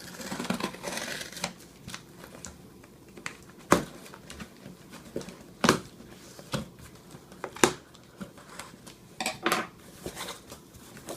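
A cardboard box being opened and its contents handled: rustling and crinkling, with a few sharp knocks spread through the middle.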